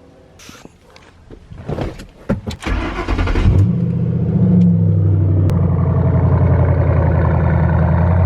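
Ford Mustang's three-valve 4.6-litre V8 on Flowmaster Outlaw exhaust cranking and firing up about three seconds in, flaring briefly, then settling into a steady, loud idle. A few light clicks and knocks come before the start.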